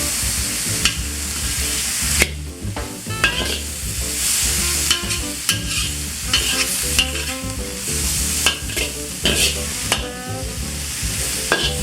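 Chicken and vegetables sizzling in a hot pan as they are stir-fried, with the utensil clicking and scraping against the pan over and over. The sizzle drops briefly about two seconds in, then comes back.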